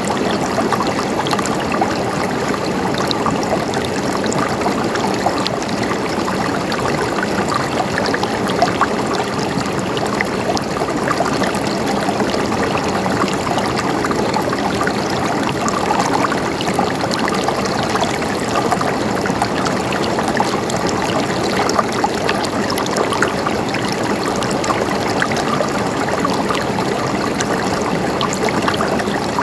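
Water flowing in a stream, a steady gurgling babble of small splashes and trickles.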